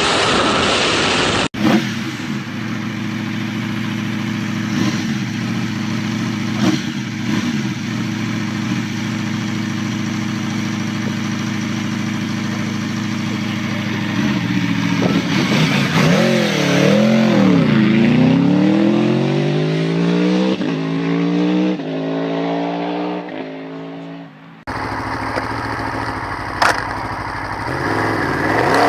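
High-performance motorcycle engine running at a steady pitch. About halfway through, the revs swing up and down, then climb in repeated rising runs that each drop back as it shifts up through the gears while accelerating. The sound cuts abruptly to another engine shortly before the end.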